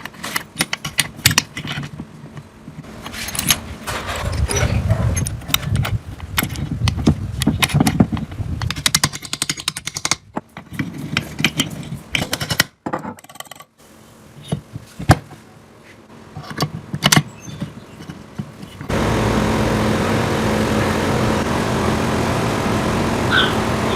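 Irregular metallic clicks and knocks of parts and tools being handled. About 19 seconds in, a steady engine running sound starts abruptly.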